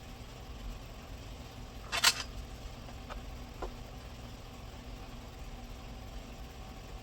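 A single sharp clack about two seconds in, then a couple of faint ticks, over a steady low hum: tools and parts being handled during hands-on work on a car.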